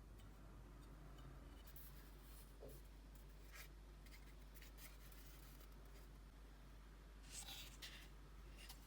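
Near silence over a steady low hum, with a few faint scratches and light clicks, a small cluster of them near the end.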